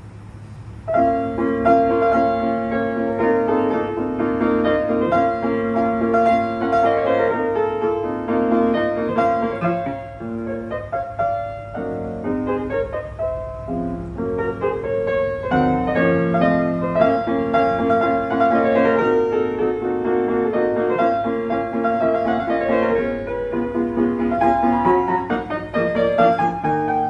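A 1995 Petrof P194 Storm III grand piano, 194 cm long, being played. Chords and a moving melody start about a second in.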